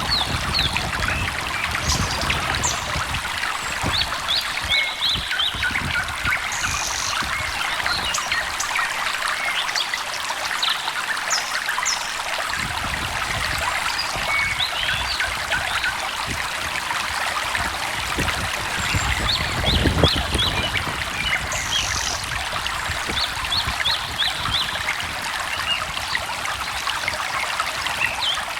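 Stream water trickling and babbling steadily, with birds giving short high chirps throughout. A single sharp knock about twenty seconds in.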